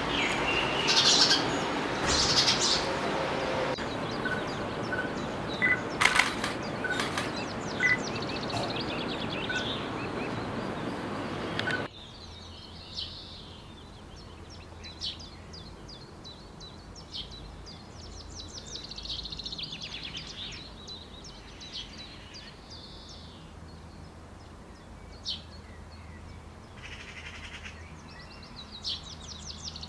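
Several wild birds chirping and singing in short calls and trills. For the first dozen seconds they sound over a loud, steady rushing noise, which cuts off suddenly, leaving the birds over a quiet background.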